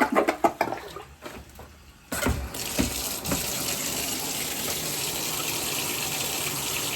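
Water splashing and gurgling unevenly, then about two seconds in a steady rush of water starts: a tap running into a sink.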